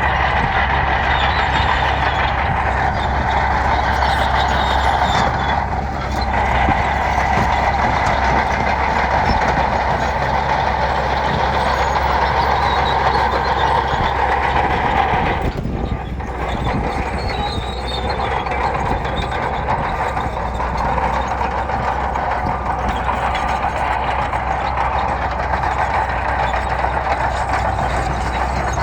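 Bulldozer's heavy diesel engine running steadily as it works gravel, with brief dips about 6 and 16 seconds in.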